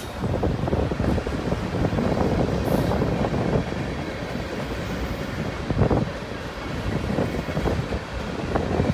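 Freight cars of a mixed manifest train rolling past: boxcars, an autorack, tank cars and covered hoppers, their steel wheels clattering over the rail joints in a steady run of clicks, with one louder clank about two-thirds of the way through.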